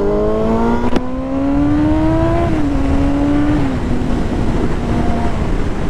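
Motorcycle engine accelerating, its pitch climbing steadily, then dropping as the throttle eases about halfway through and dropping again a little later before holding steady, over wind rush. A single sharp click about a second in.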